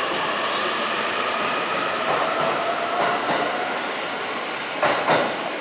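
JR East 185 series electric train running on the rails, with wheel noise and a whine whose tones slowly fall in pitch. Two sharp knocks come near the end.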